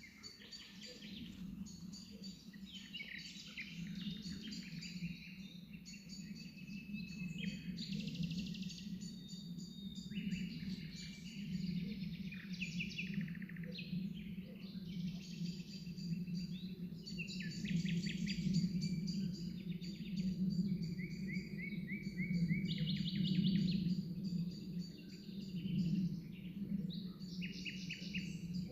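Several birds chirping and singing continuously in short repeated phrases, over a steady low hum.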